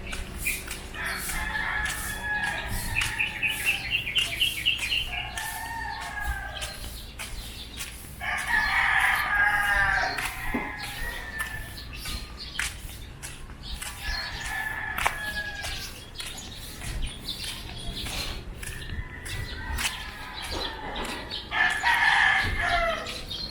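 Roosters crowing several times, the loudest crows about eight seconds in and again near the end.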